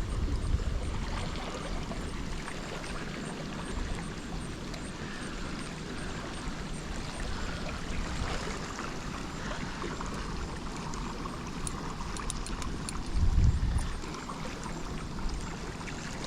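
Steady rush of running water, with a short low rumble about thirteen seconds in.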